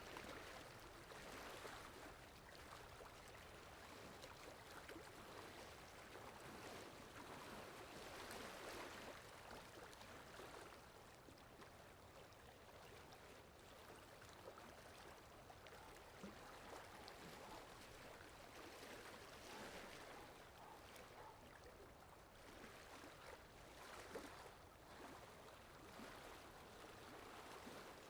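Faint running water from a water sound-effect track, a steady rushing that swells and eases every several seconds, with a few faint clicks.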